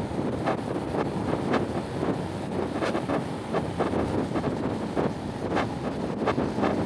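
Heavy rain falling steadily, with irregular sharp taps close by, and wind buffeting the microphone.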